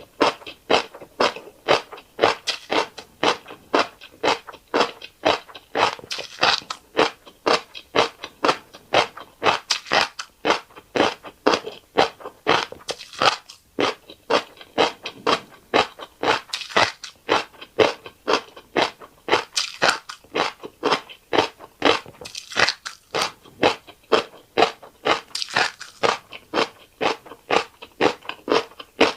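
Close-miked chewing of a mouthful of fish roe rice bowl: crunchy, crackly bites at a steady pace of about two to three chews a second, stopping at the very end.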